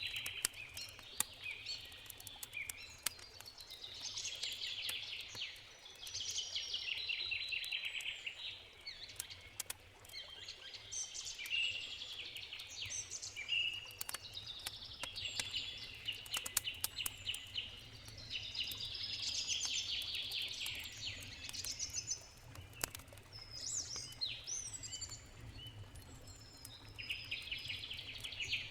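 Songbirds singing in repeated short trilling phrases over the sharp, irregular crackle and pops of a burning wood campfire.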